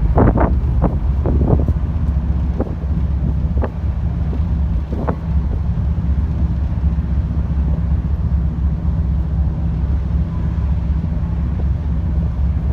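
Car ferry's engines running in a steady low drone, with wind buffeting the microphone and a few short knocks in the first five seconds.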